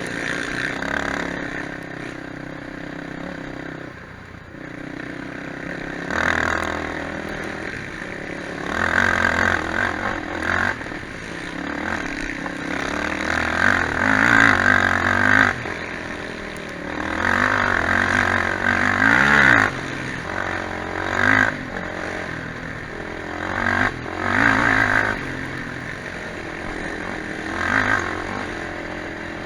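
Quad bike (ATV) engines revving up and easing off in repeated bursts, several times over.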